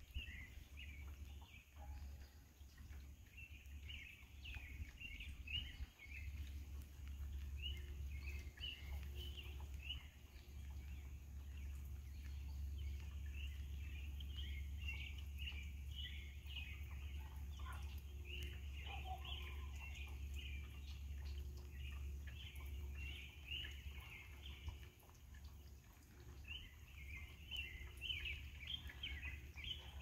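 Small birds chirping and chattering in the trees: many short, overlapping calls, thickest near the end, over a steady low rumble.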